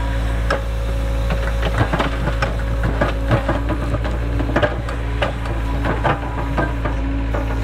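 Excavator diesel engine running steadily, with frequent irregular knocks and clicks over it.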